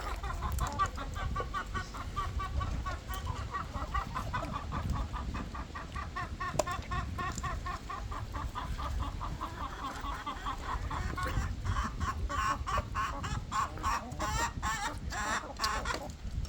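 Hens clucking in a quick, continuous run of repeated calls, getting louder and harsher in the last few seconds, over a low rumble.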